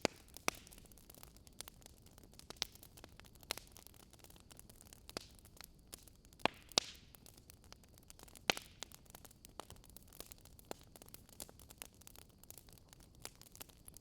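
Wood fire crackling: irregular sharp pops and snaps over a faint low hiss, a few louder snaps around the middle.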